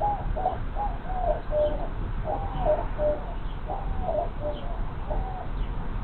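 A bird calling repeatedly in short hooting phrases, each phrase stepping down in pitch at its end; the calls stop about five and a half seconds in. A steady low hum lies underneath.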